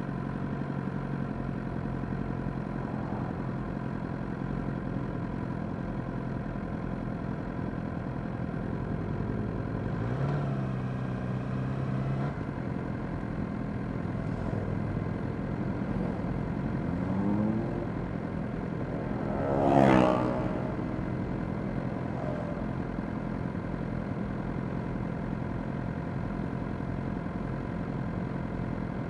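Suzuki GSX-R600's inline-four engine running at low revs in slow traffic among other motorcycles. Short revs come about ten and seventeen seconds in, and a louder rev rises and falls about twenty seconds in.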